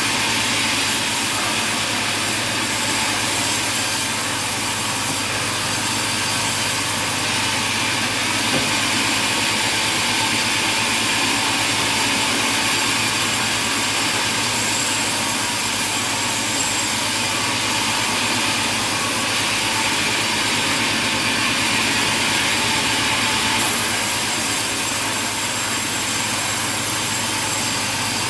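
Sawmill machinery running steadily: a continuous loud mechanical noise over a constant low hum, with no pauses or changes.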